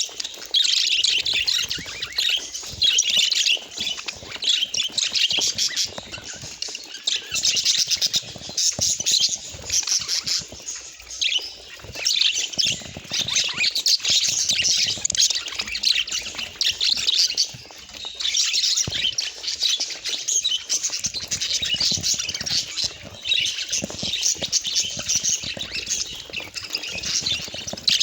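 Budgerigars chattering: continuous rapid chirps, warbles and squawks.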